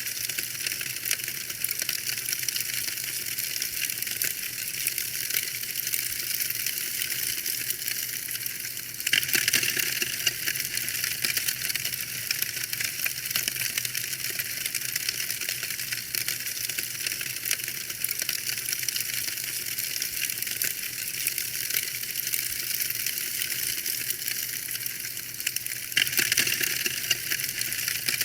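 Wood fire in a fireplace crackling steadily, a dense run of small cracks and pops, with louder flurries about nine seconds in and again near the end.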